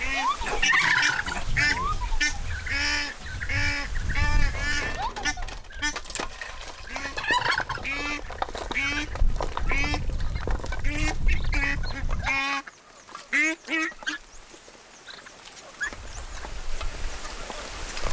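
A flock of farm poultry calling repeatedly, many short pitched calls overlapping, with a low rumble underneath. The calls die away about fourteen seconds in.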